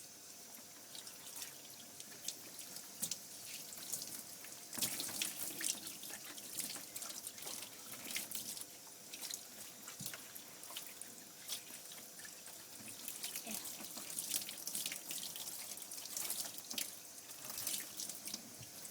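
Running water splashing and spattering on a dog's wet coat in a bath as the shampoo is rinsed out.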